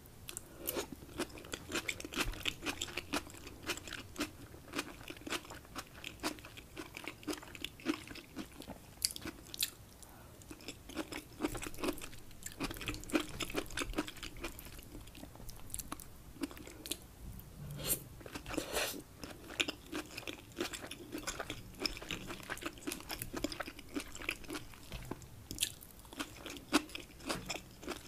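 Close-miked chewing of a mouthful of rice with shrimp and scallops: a dense run of small clicks from the mouth, with short lulls between bites.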